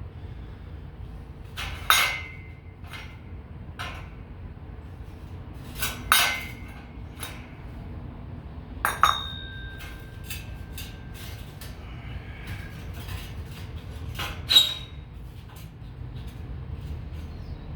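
Pieces of scrap steel clanking against metal: four sharp clanks, each ringing briefly, with a few lighter knocks between them, over a steady low hum.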